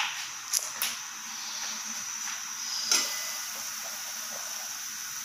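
Chicken frying in hot oil: a steady sizzle, with a few light clicks of a utensil against the pan.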